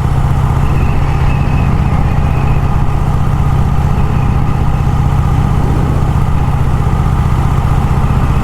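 Vintage Vincent motorcycle engine running steadily at an even cruising speed while riding, with no change in pitch.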